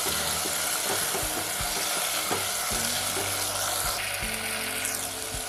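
Radish slices, shallots and tomato sizzling steadily in oil in a nonstick pan. A wooden spatula stirs them, knocking and scraping against the pan now and then.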